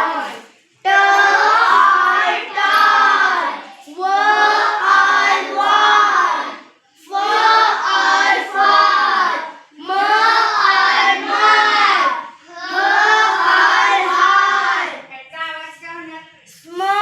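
A group of children chanting phonics word readings in unison, in about six sing-song phrases of two to three seconds each with short pauses between, the last phrase fainter.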